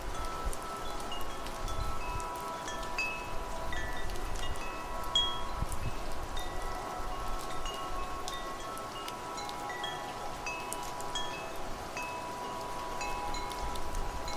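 Wind chimes ringing in irregular, overlapping strikes: short high notes scattered throughout, with lower tones lingering. A steady wash of wind and rain sits underneath.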